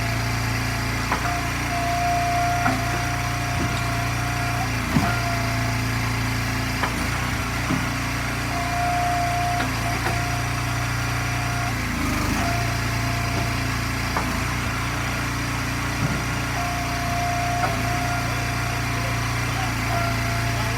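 Gas engine of an Eastonmade hydraulic log splitter running steadily. A higher whine comes and goes every few seconds as the ram cycles, with scattered knocks of wood.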